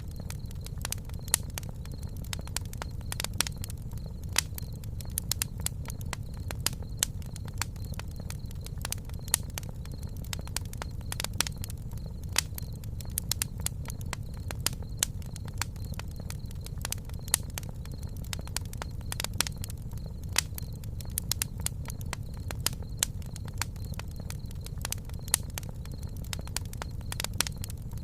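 Wood fire crackling, with frequent sharp, irregular pops over a steady low rumble of the flames.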